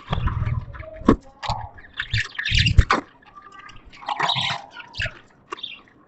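Pet budgies chirping and chattering in irregular bursts, with a few sharp clicks and low thuds mixed in.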